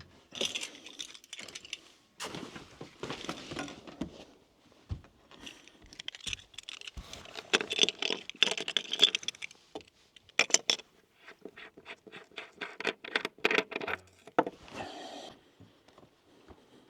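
Gear being handled aboard a sailboat: irregular clatter, knocks and scrapes, with a quick run of sharp clicks a little past the middle.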